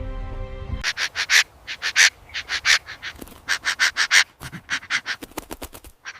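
Background music cuts off under a second in, then a bulbul gives a fast string of short, harsh calls, about six a second, which stop shortly before the end. These are alarm calls at a threat.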